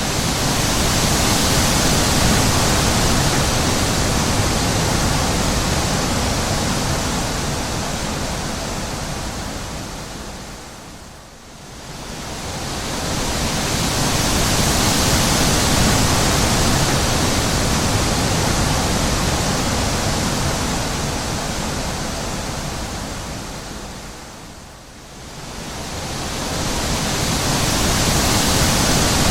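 Wind blowing in long, slow gusts: a loud, even rushing hiss that swells and fades, dying down briefly about a third of the way in and again near the end.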